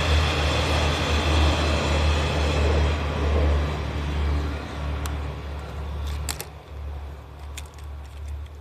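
Passing train of coupled diesel railcars running away into the distance, its running and rolling noise loud at first and fading over the first four seconds. A lower rumble goes on after it, with a few short clicks near the end.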